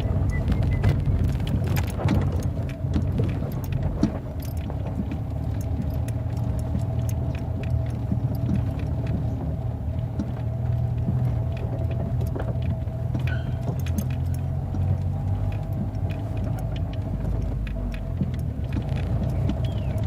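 Motor vehicle running steadily with a low rumble and a steady hum, with frequent small rattles and clicks throughout.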